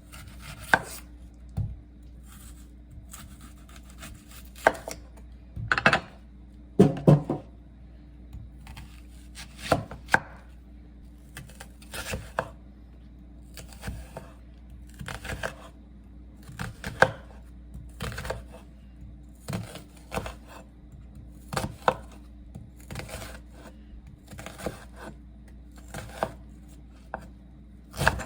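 Knife chopping food on a cutting board: slow, uneven strokes about once a second, over a steady low hum.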